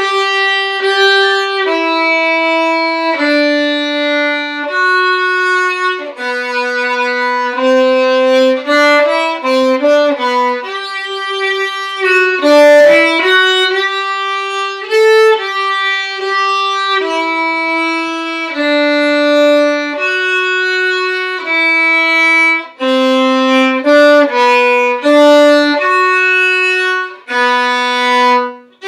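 A violin playing a slow string-method exercise melody in bowed, held notes, one note at a time, with brief breaks between phrases.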